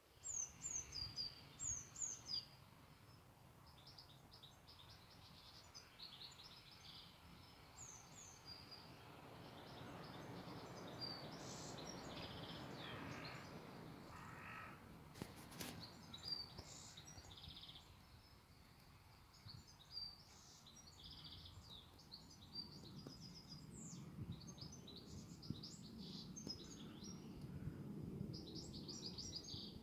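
Small songbirds chirping and singing, with quick runs of short high notes and trills that come thickest at the start and near the end. A faint low rumble runs underneath, and there is one sharp click midway.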